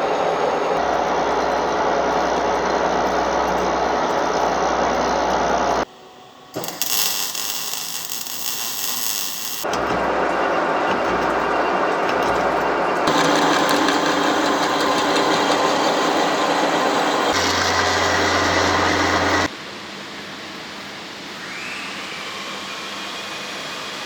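Metalworking machinery running steadily in a string of short clips that cut abruptly from one to the next, about six times. A few seconds in, one clip holds a hissy crackle reaching very high.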